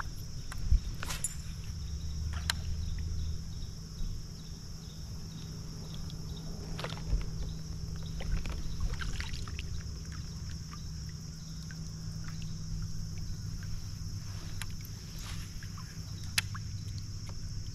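Water noises around a kayak: small trickles and drips, with scattered light clicks and knocks, over a steady low hum.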